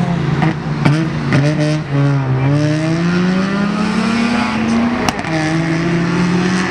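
Loud car engine revving hard under acceleration, with quick throttle blips in the first two seconds. The pitch then climbs steadily and drops suddenly about five seconds in, as at a gear change, before climbing again.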